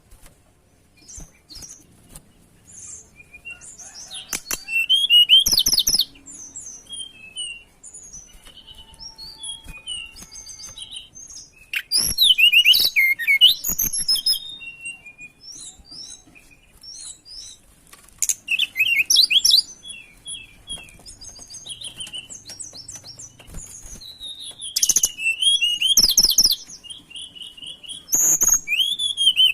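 Tledekan gunung songbird singing in bursts of rapid, high twittering phrases with short pauses between them, mixed with a few sharp clicks; the bird is in breeding condition and singing hard.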